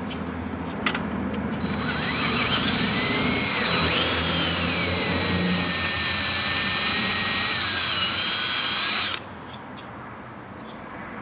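Electric drill boring into a snapped bolt in a Mazdaspeed 6 cylinder head, to make way for an extractor. The motor's whine wavers in pitch with the load, starting about two seconds in and cutting off suddenly about seven seconds later.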